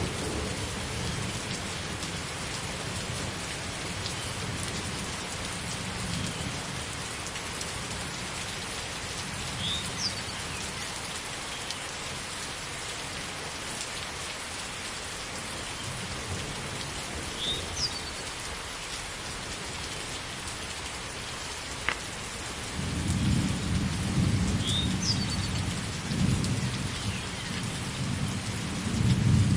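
Steady heavy rain falling, with thunder rumbling low underneath, the rumble swelling louder over the last several seconds. A single sharp crack comes about two-thirds of the way through.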